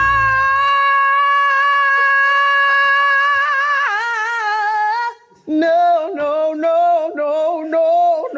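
A woman's scream held as one long, steady, high sung note, wavering after about four seconds. After a brief break a lower voice follows with a run of short, wavering sung cries.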